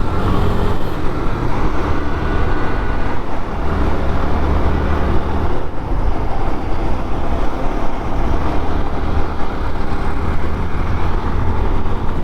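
Suzuki Gixxer motorcycle's single-cylinder engine running steadily while riding, under a constant rush of wind and road noise.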